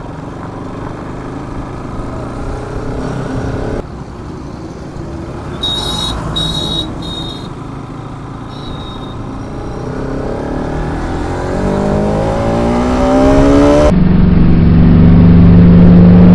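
Motorcycle riding noise, engine and wind together, with a few short high beeps about six seconds in. From about eleven seconds the engine's pitch climbs steadily as the bike accelerates. Near the end the sound cuts abruptly to a louder steady drone.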